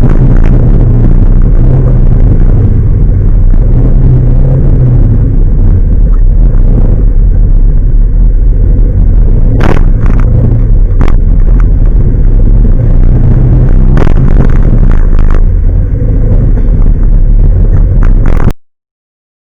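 Large truck running: a loud, steady low engine-and-road rumble, with a handful of sharp knocks or rattles in the second half. It cuts off suddenly near the end.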